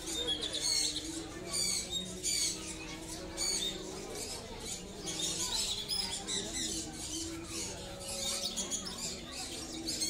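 Many small cage birds chirping together: quick, high, squeaky chirps several times a second, over a low background murmur.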